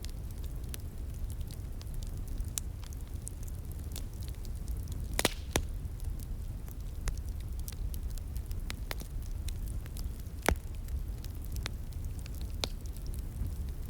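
Wood fire crackling: irregular sharp pops and snaps, the loudest about five and ten seconds in, over a steady low rumble.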